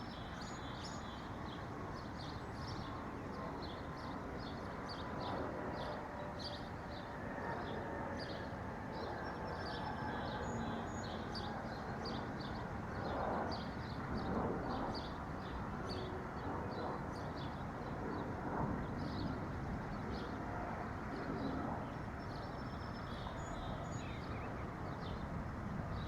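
Small birds chirping and twittering, many short calls one after another, over a steady background rush.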